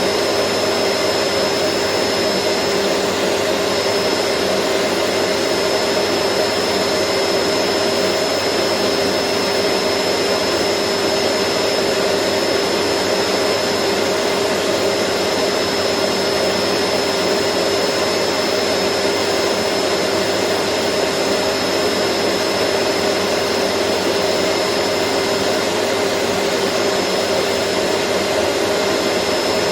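Vacuum cleaner running continuously at a steady pitch: an even rushing of air with a hum and a thin high whine held over it, unchanging throughout.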